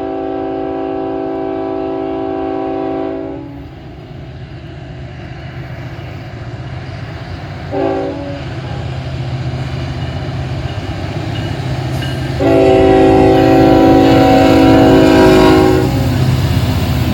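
Norfolk Southern freight locomotive's multi-note air horn: a long blast that ends about 3 seconds in, a brief toot near 8 seconds, then another long blast from about 12 to 16 seconds, over the steady rumble of the diesel locomotives pulling the train.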